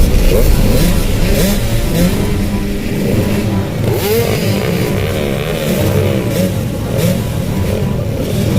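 Dirt bike engines running on a motocross ride, revving up and down repeatedly as the throttle opens and closes.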